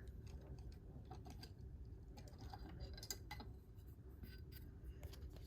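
Faint, scattered light clicks and rustles of trading cards being handled and set down, over a low steady hum.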